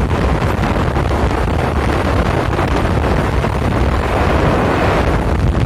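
Loud wind buffeting the microphone of a moving bike, with a steady low rumble of travel underneath.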